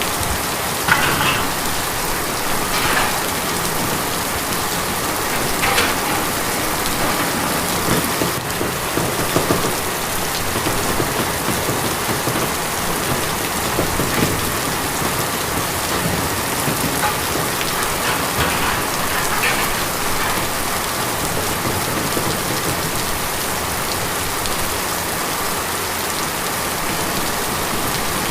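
Steady rain drumming on a tin roof, with a louder spatter of drops every few seconds.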